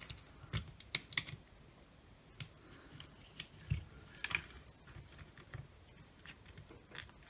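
Plastic case and switch parts of a Milwaukee cordless rotary tool clicking and knocking as they are handled and fitted back together: scattered light clicks, a few close together about a second in and more spread through the rest.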